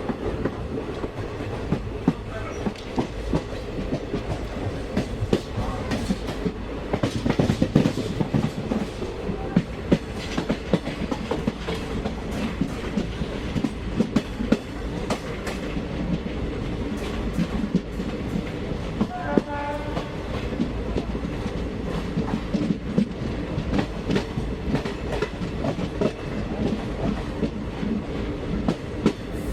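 Passenger coach of an Indian local train running at speed, heard from inside the carriage: a steady rumble with the wheels clicking over rail joints. A brief pitched tone sounds about twenty seconds in.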